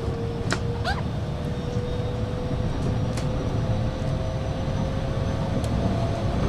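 Electric train running with a steady low rumble and a motor tone that rises slowly in pitch. A few sharp clicks and a short squeal come about a second in.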